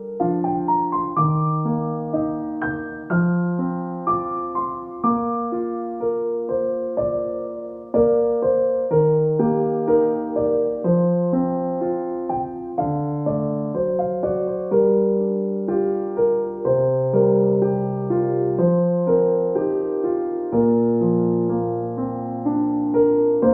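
Background piano music: a gentle, steady run of notes over low chords.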